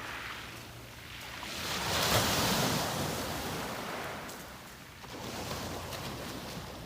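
Sea waves breaking on a beach: one wave surges in and crashes about two seconds in, then washes back, and a smaller wave rolls in about five seconds in.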